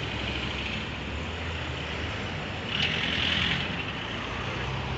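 Car engines running at low revs as cars pull slowly away in a line, a steady low hum, with a short rushing noise about three seconds in.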